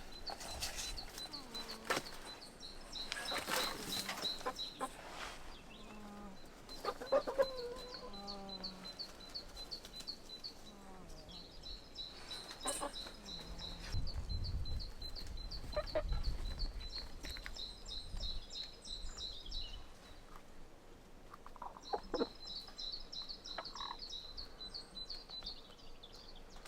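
Chickens clucking while being fed, with long runs of rapid high-pitched chirping and a few low gliding calls. A low rumble comes in about halfway through.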